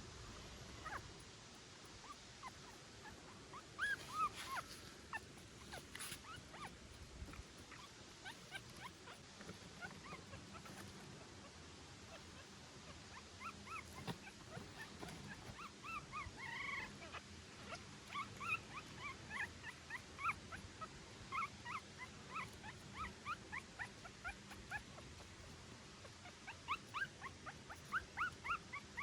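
Newborn puppy whimpering in short, high squeaks: a few scattered ones at first, then quick runs of them through the second half.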